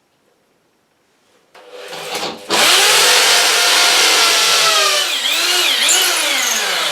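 Corded hammer drill with a 6 mm bit boring into a wall, hammer action on. It starts about a second and a half in and runs loud and steady. In the last couple of seconds its motor pitch dips and rises several times before it winds down.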